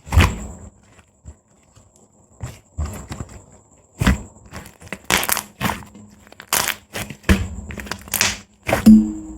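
Soft white slime being pressed and stretched by fingers, giving irregular wet clicks and pops as air bubbles burst, with a louder cluster of pops near the end.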